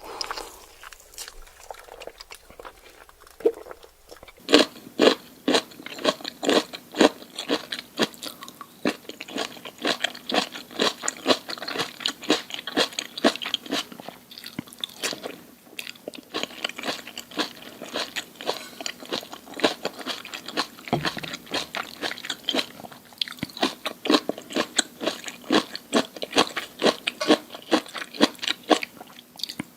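Close-miked eating: crunchy food being bitten and chewed, with rapid crackling crunches that start about four seconds in and keep going.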